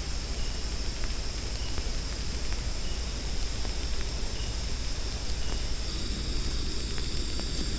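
Jungle ambience: a steady rushing water noise under a constant high insect drone, with a faint short high chirp repeating about every second.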